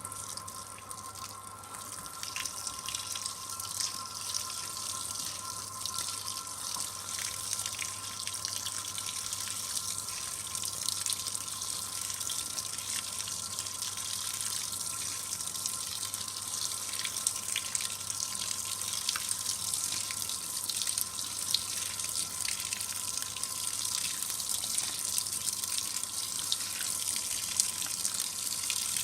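Simpson 8.5 kg washing machine filling with cold water at the start of a delicates cycle: a steady splashing rush of water into the tub that swells slightly a couple of seconds in, with a faint steady whine beneath it.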